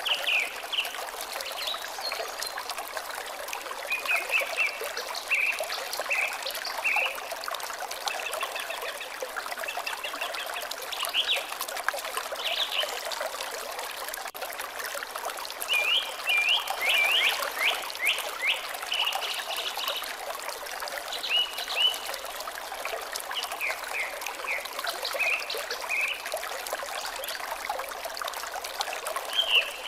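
Water trickling steadily, with small birds chirping in bouts of quick, high notes.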